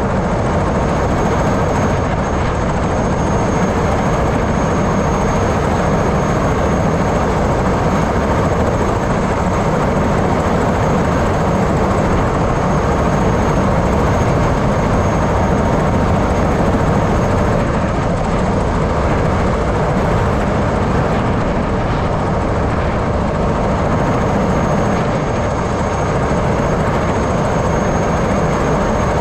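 Helicopter engine and rotor running steadily and loud, with a thin, steady high whine above the noise.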